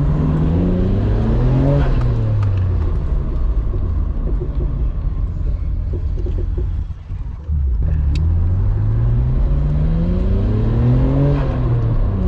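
Nissan Skyline R32 GT-R's twin-turbo straight-six accelerating through the gears, its pitch climbing and then dropping at each shift. It eases off briefly about seven seconds in, then pulls up through the gears again.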